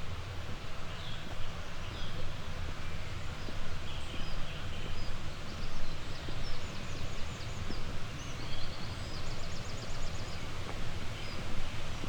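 Small songbirds chirping in short high calls, with a quick trill about nine seconds in, over a steady rushing background.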